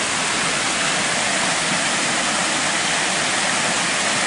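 Large artificial rock waterfall running, water pouring and splashing into its pond in a steady rush.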